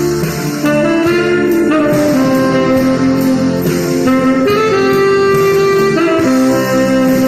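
Saxophone playing a jazzy melody of held notes over a backing accompaniment with guitar.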